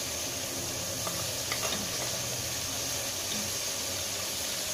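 Chicken pieces frying in oil with ginger-garlic paste and spice masala, a steady sizzle, with a few faint clicks about a second and a half in.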